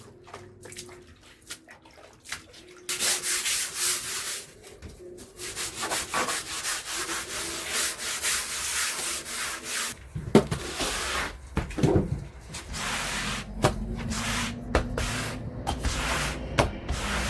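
Rough rubbing strokes, on and off, with a low rumble joining about ten seconds in.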